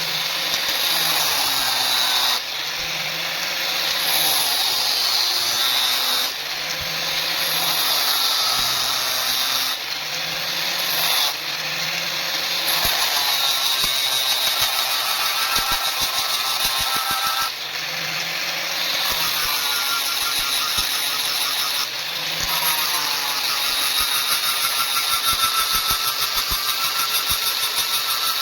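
Electric power tool, most likely a grinder, working a steel knife blank: a continuous loud motor whine with grinding noise that changes abruptly every few seconds, its pitch climbing back up after some of the breaks.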